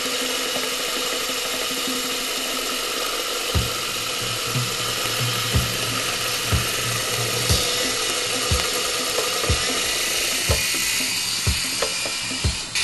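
Small electric motors of a toy indoor RC helicopter whining steadily in flight. About three and a half seconds in, background music with a low beat about once a second comes in under it.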